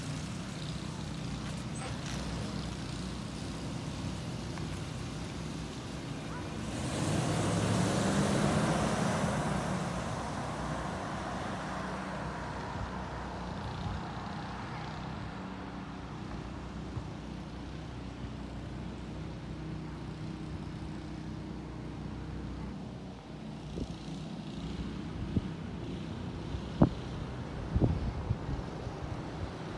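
Lexus LX 470's 4.7-litre V8 idling steadily just after a cold start. About seven seconds in it swells louder for a couple of seconds, rising and falling in pitch. A few sharp clicks come near the end.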